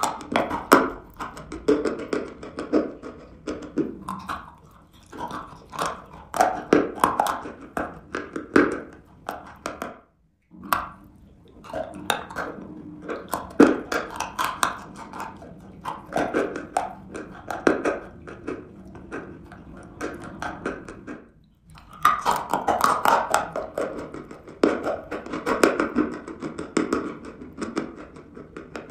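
Chewing and biting a chunk of dry chalk coated in wet grey clay: crunching bites mixed with wet, sticky mouth sounds, pausing briefly about ten and twenty-one seconds in.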